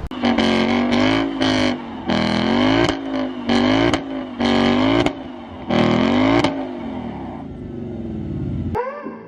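2017 Mercedes-Benz C63 AMG's twin-turbo V8 on its stock exhaust, revved in about eight quick throttle blips one after another. It then settles back toward idle.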